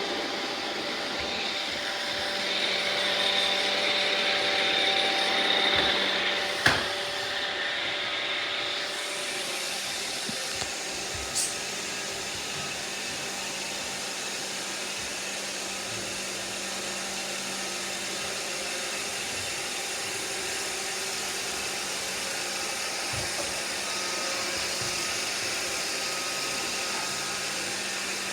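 Several iRobot Roomba robot vacuums running: a steady whir of motors and brushes with a few faint whining tones, louder for the first several seconds. A sharp knock sounds partway through, and a lighter tick follows a few seconds later.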